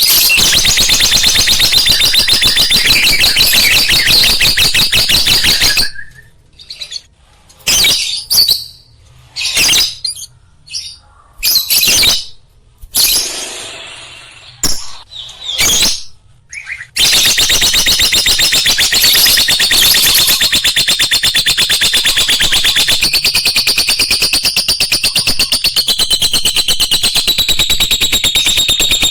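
Lovebird chattering in long, rapid, unbroken trills. In the middle these give way to shorter separate calls with pauses, and the long trill resumes.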